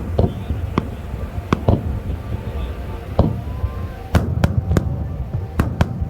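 Aerial fireworks shells bursting: repeated sharp bangs over a steady low rumble, coming in a quicker run from about four seconds in.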